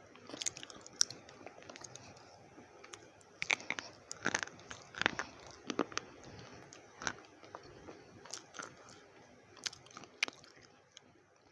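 Slate pencils being bitten and chewed: a string of irregular, crisp crunches that thin out and fade near the end.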